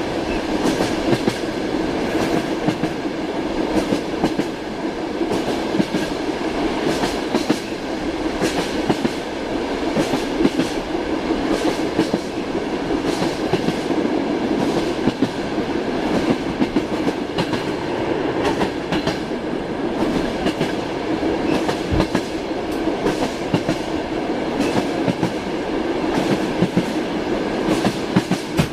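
A train carriage rolling along the rails: a steady rumble with the wheels clacking over rail joints again and again.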